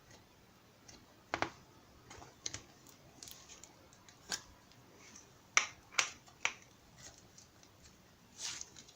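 Scattered, irregular sharp clicks and taps, about a dozen, with the loudest pair a little past the middle and a softer, duller one near the end.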